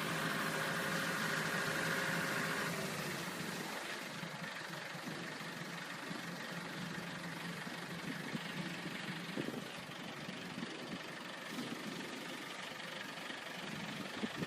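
Road sweeper truck running, its engine going steadily with a whine that stops about three seconds in, leaving a steady rushing noise.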